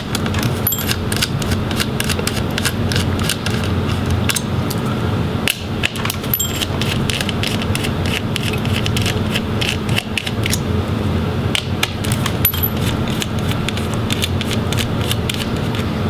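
Screwdriver backing out the screws of a laptop's fan and heatsink assembly: scattered small metallic clicks, rattles and scrapes throughout.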